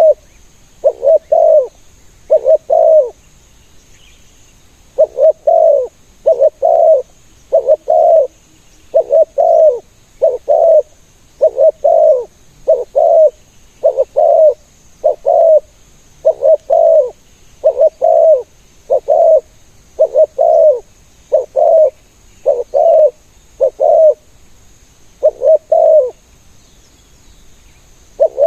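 Spotted dove cooing over and over, short coos mostly in close pairs about once a second, with one pause of a couple of seconds about three seconds in.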